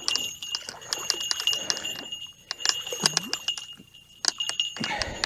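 Small bite-alarm bell on a bottom-fishing rod jingling in quick, irregular clinks with a thin ringing tone, shaken by a hooked fish being played and landed.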